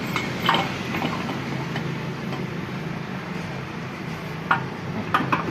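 Metal clinking and tapping as tools and tractor gearbox parts are handled, with a few sharp clinks near the end, over a steady low hum.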